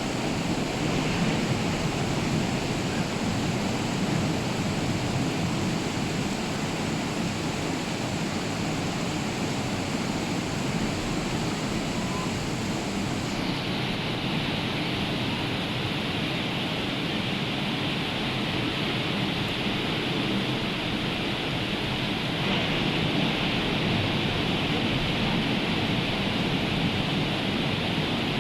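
Rough sea and rain: a steady, even rush of surf and falling water with no distinct breaks. About halfway through it turns suddenly duller as the highest hiss drops away.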